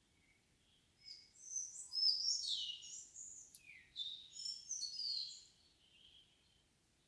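A songbird singing one varied, rapid phrase of high chirps, trills and short notes lasting about four seconds, starting about a second in, with a few faint soft calls from farther off before and after.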